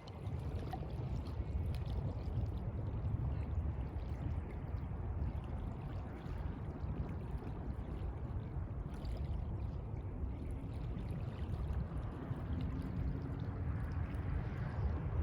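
Sea water washing and lapping, a steady rush of water noise with no breaks.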